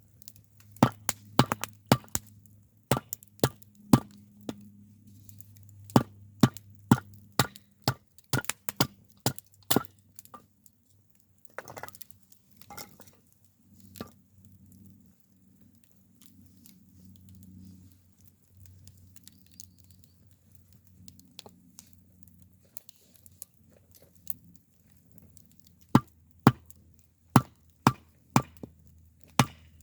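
Firewood being split with a knife: a run of sharp, irregular wooden knocks, then a pause of about ten seconds, then more knocks near the end. A faint steady low hum lies underneath.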